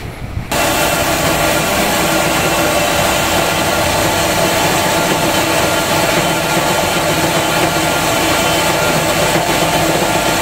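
PET flake washing machine running, a loud steady mechanical noise with several constant hum tones, coming in abruptly about half a second in.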